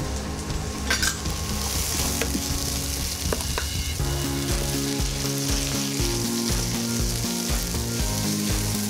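Small onions, tomatoes and fresh mint sizzling as they sauté in a nonstick kadai, stirred with a wooden spatula, with a few sharp scrape clicks.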